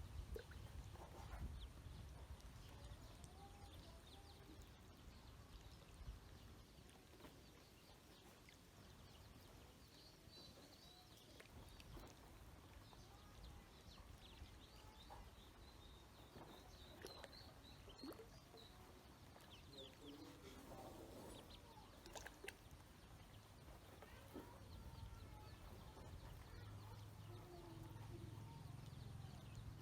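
Faint, quiet peeping of ducklings, short high chirps in scattered runs, over a low background rumble.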